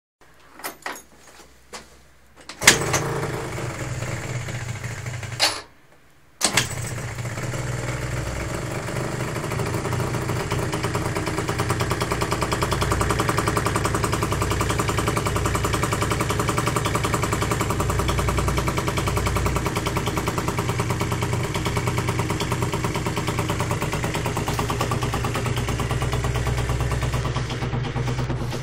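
Generic Xor scooter engine cold-started: a few clicks, then it fires and runs for about three seconds before cutting out, and on the second start it catches and idles steadily.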